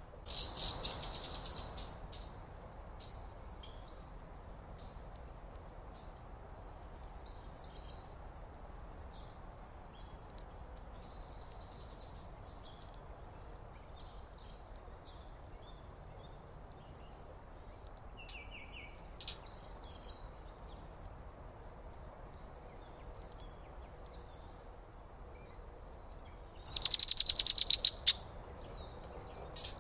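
Backyard birds calling: a rapid trilled call in the first two seconds and a louder one near the end, with scattered faint chirps between, over a steady low background hiss.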